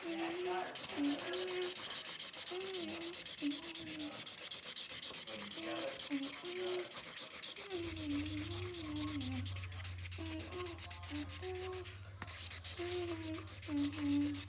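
A felt-tip marker scratching across paper in rapid back-and-forth colouring strokes. Someone hums softly underneath, and a low steady hum comes in about halfway through.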